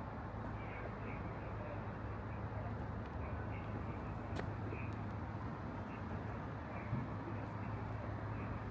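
Steady city street ambience: an even background rush with a constant low hum, faint short high chirps now and then, and a single sharp click about four and a half seconds in.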